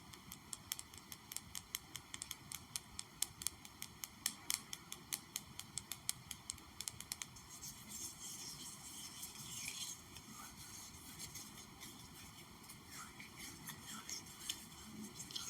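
Rapid light tapping, many small sharp taps a second, for about the first seven seconds, then a stretch of scratchy rustling followed by a few soft scattered taps.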